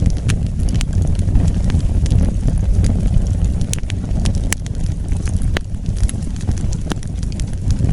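Wood fire burning: a steady low rumble of flames with scattered sharp crackles and pops.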